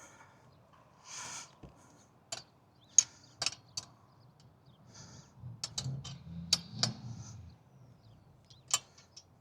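Scattered sharp metallic clicks and clinks of a wrench and bolts being worked on an antenna mast mount, coming in irregular groups a second or more apart, with a low rumble of handling in the middle.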